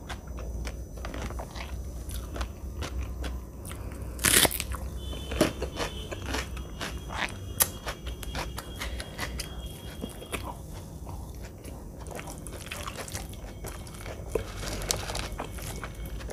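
Close-miked chewing and crunching of a mouthful of food, with wet mouth clicks and lip smacks throughout and one loud crunch about four seconds in.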